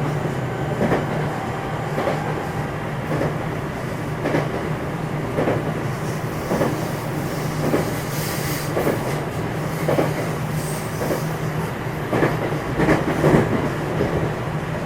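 A JR West 227 series electric train (motor car KuMoHa 227-7, Hitachi IGBT VVVF drive), heard from inside the car as it runs along the line. Wheels click over rail joints about once a second over a steady low running hum.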